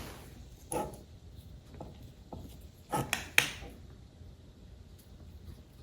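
Scattered clicks and light knocks from handling the box fan's motor and a paper towel while wiping off excess bearing oil, with a short cluster of sharper knocks about three seconds in.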